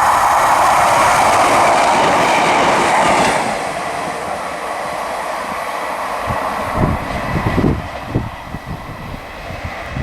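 Diesel multiple unit passing through the station at speed: a loud rush of wheels on rail for the first three and a half seconds, then dropping away to a lower rumble as the train recedes. Irregular low thumps follow in the second half.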